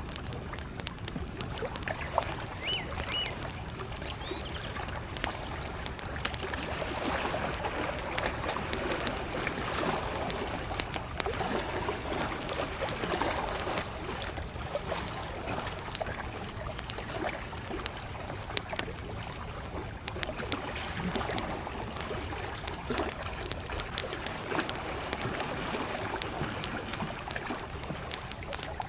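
Wood campfire crackling with frequent sharp pops over the steady lapping of small waves on a lakeshore. A couple of brief high bird chirps come a few seconds in.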